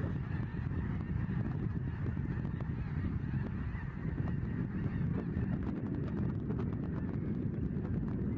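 Geese honking, many calls overlapping in a steady din.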